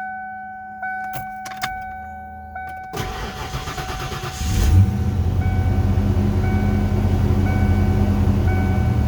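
A 1992 Lincoln Mark VII LSC's 5.0-litre V8 cold start after sitting two days: a dashboard warning chime repeats about once a second, the starter cranks about three seconds in, and the engine catches and settles into a steady idle while the chime keeps going.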